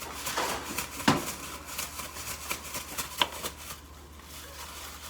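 Kitchen handling noises: a run of light clicks, rustles and knocks from containers and utensils being moved about, with a sharper knock about a second in and another just after three seconds.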